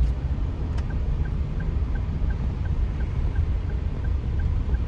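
A car's turn-signal indicator ticking steadily, about three ticks a second, over the low rumble of engine and road noise inside the cabin.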